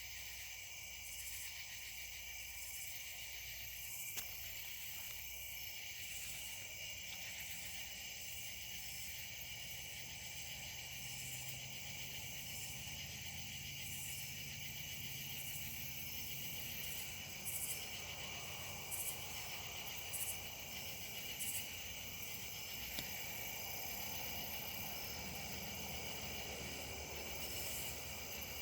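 Night insect chorus, several insects trilling steadily at different pitches, with a faster pulsing high call over them. About two-thirds of the way in, four short, louder high calls stand out.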